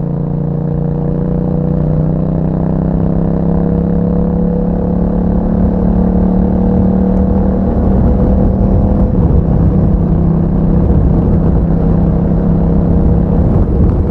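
Yamaha MT-07's parallel-twin engine running through an Akrapovic exhaust under way, its pitch rising slowly as it pulls. About nine seconds in the pitch dips a little, then holds steady.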